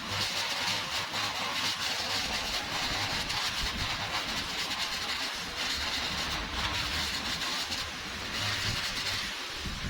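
Small engine or motorized machine running steadily, with a strong hiss.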